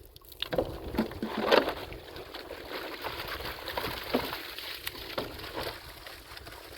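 Water splashing and gurgling as it is poured or run into a container, with scattered knocks; busiest in the first second or two.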